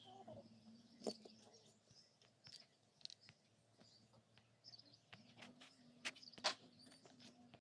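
Near silence with faint bird chirps and a few sharp clicks, the loudest about six and a half seconds in.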